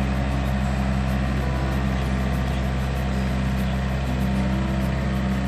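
Yanmar US545 tractor's three-cylinder diesel engine running steadily at a constant speed.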